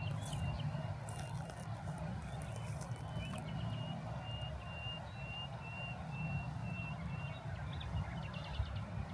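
Outdoor ambience: a steady low rumble, with a short high note repeated about twice a second for several seconds in the middle.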